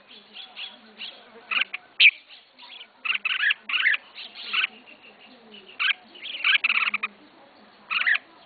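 A caged red-whiskered bulbul singing: short bursts of bright, warbling chirps repeated in phrases, with the longest runs about three and six seconds in.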